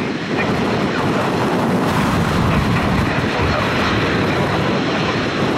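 Single-engine turboprop of a TBM 700 running with a steady, even noise.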